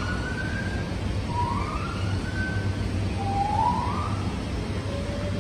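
A bird's whistled call, three times: each note about a second long, sliding up in pitch and then holding, with a shorter, lower level note near the end, over a steady low hum.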